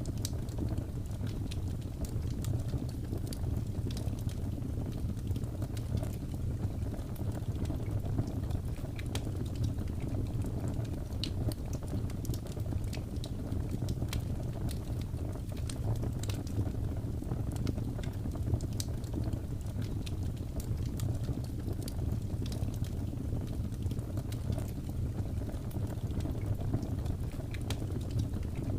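Wood fire burning in a fireplace: many small, irregular crackles and pops over a steady low rumble.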